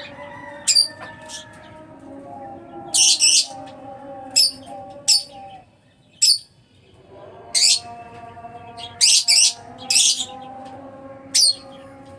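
Lovebirds giving sharp, high-pitched chirps: about a dozen short calls scattered through, some in quick pairs, over a fainter steady background of held tones.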